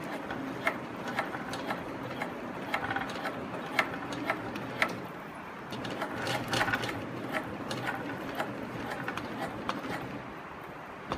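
SEWPRO 18365-10 high post walking foot industrial sewing machine stitching slowly, with the irregular clicking and clatter of its needle and feet mechanism.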